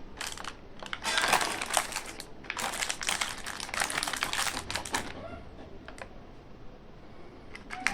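Plastic candy wrappers and packaging crinkling and crackling as they are handled, in dense runs of quick crackles that thin out after about five seconds.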